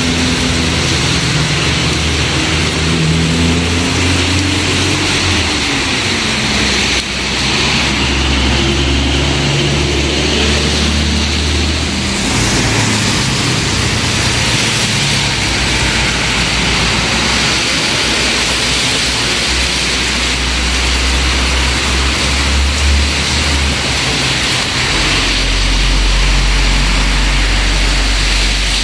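A vehicle engine running, its low hum changing pitch a few times, under a steady hiss of heavy rain.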